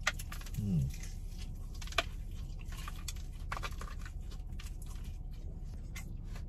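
A person biting into and chewing fried chicken, with sharp crunches and clicks about two seconds and three and a half seconds in and wet mouth sounds between them. There is a short hummed "mm" just under a second in, over a steady low hum.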